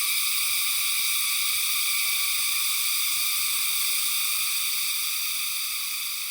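Loud, steady chorus of cicadas in tropical forest: a continuous high-pitched drone in several layered pitches, easing slightly near the end.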